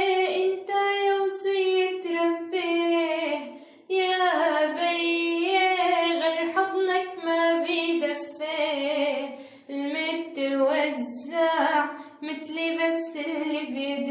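A young female voice singing solo and unaccompanied in Arabic style, long held notes bent with ornaments and short breaths between phrases.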